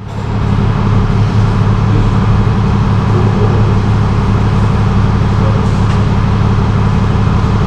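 Tow truck engine running steadily at idle, a constant low hum.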